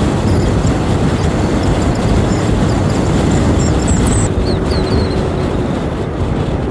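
125cc learner motorcycle riding along at steady road speed, its engine running under a steady, loud rush of wind over the microphone.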